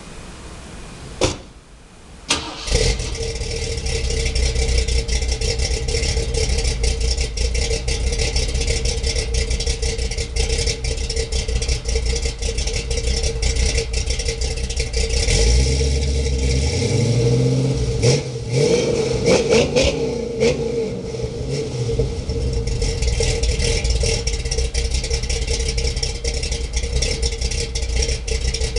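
Ford Fairmont's engine starting through its exhaust about two and a half seconds in, after a sharp click, then idling steadily. It is revved up and back down around the middle, with a few short blips just after.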